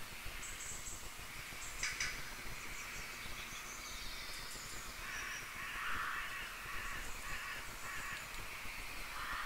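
Faint background bird calls: a run of harsh, caw-like calls from about five seconds in, with thin high chirps earlier and a single sharp click about two seconds in.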